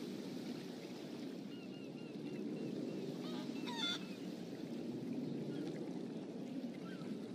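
Short, scattered bird calls over a steady low background rumble, with one louder squawk about four seconds in.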